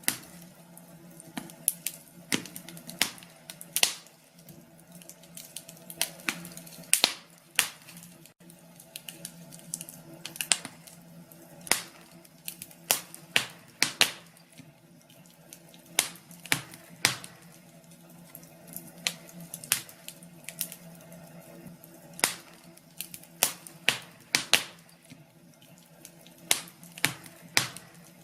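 Wood fire crackling in a fireplace: irregular sharp pops and snaps, a few every second and some much louder than others, over a faint steady hum.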